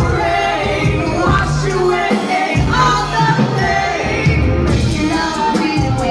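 Live band music played loud through a venue's sound system: a sung melodic vocal line over long, heavy bass notes.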